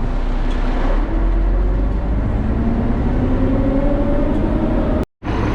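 Concrete mixer truck's diesel engine running under a steady rushing noise, its pitch rising slowly over a few seconds as it revs up; the sound cuts off suddenly near the end.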